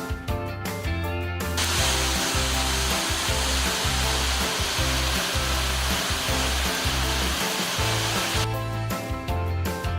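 Background music throughout. From about one and a half seconds in until near the end, the steady rushing roar of a waterfall plays under it, starting and stopping abruptly.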